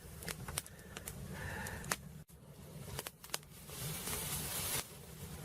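Campfire crackling: scattered sharp pops and clicks, with a short hiss about four seconds in.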